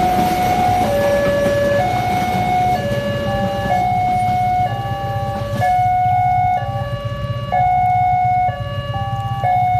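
Level-crossing warning alarm sounding a two-tone electronic signal, a higher and a lower pitch alternating, each held a little under a second, over a steady low rumble. A broad rushing noise fades away about five and a half seconds in.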